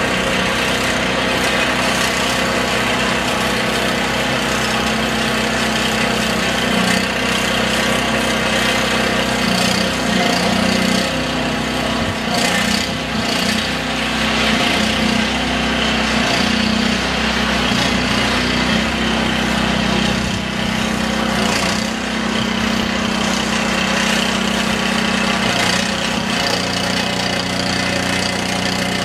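An engine running steadily, with a noisy rushing haze over it.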